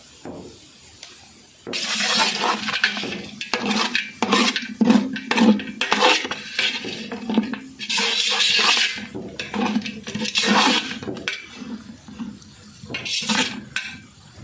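A metal spoon scraping and clinking against a cooking pan as the chicken fry is stirred. It starts about a second and a half in and goes on in uneven strokes.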